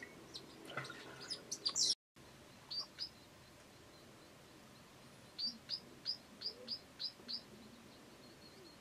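Wild birds calling: a jumble of calls in the first two seconds, then, after a brief dropout, two short high chips and a run of about eight quick high chirps, roughly four a second.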